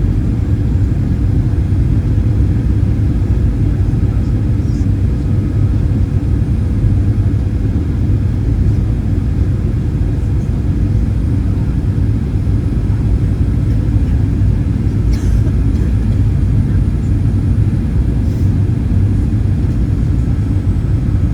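Steady low rumble of a Boeing 737-800 cabin, with engine and airflow noise and a faint steady hum.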